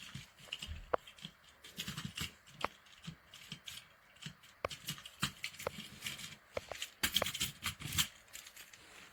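Handling noise: irregular light clicks, taps and rustling of small objects being picked up and moved, with a busier run of clicks about seven to eight seconds in.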